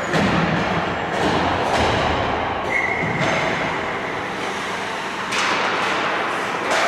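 Ice hockey game on the rink: skates scraping and sticks and puck knocking on the ice, with several sharp knocks and a brief high tone a little before the middle.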